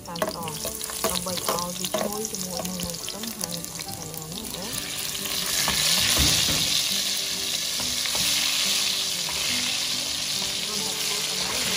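Minced garlic frying in oil in a stainless steel pot, with a few sharp pops and taps in the first seconds. About five seconds in, the sizzle swells to a loud, steady hiss as the ladle stirs and the oil foams.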